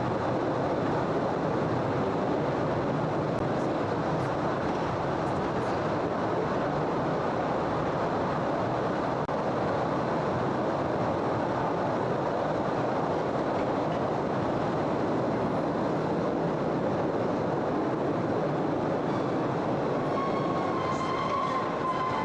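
Postojna Cave railway train running steadily along its track, a continuous noise of wheels on rails. A faint steady whine comes in near the end.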